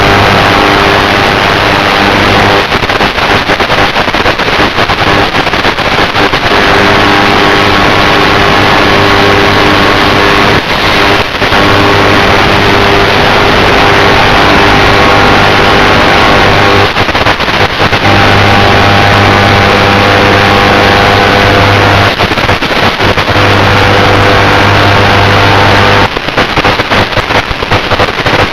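Onboard audio of an FPV aircraft's electric motor and propeller running steadily under heavy wind rush. A low motor hum drops out and returns every few seconds.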